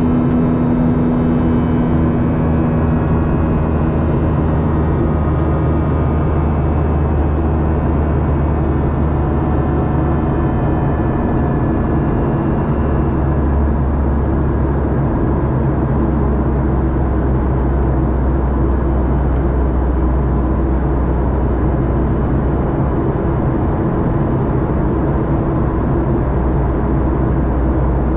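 Cabin noise of a Boeing 737-800 heard inside the cabin: a steady roar and hum from its CFM56 turbofan engines and the airflow. Faint high engine tones fade over the first dozen seconds, and the low hum shifts about halfway through.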